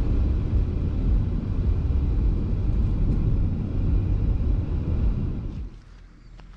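Car driving on a road: a steady low rumble of engine and road noise that cuts off about five and a half seconds in.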